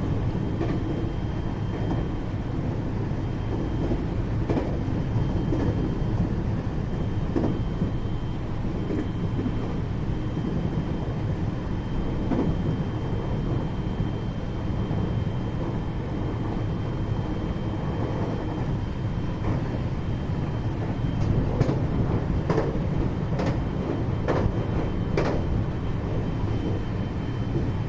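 Interior running noise of a 521-series electric multiple unit, heard in its motor car: a steady rumble of wheels on rail with a thin, constant high tone. Near the end come several sharp clacks, a few in quick succession, as the wheels pass over rail joints or points.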